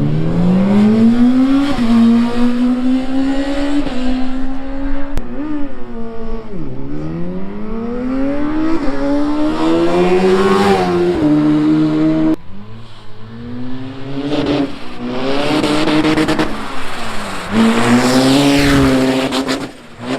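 Racing engine accelerating hard on a sprint run. The revs climb and drop sharply at each gear change, several times over. About two-thirds of the way through it briefly goes quieter, then climbs through the gears again.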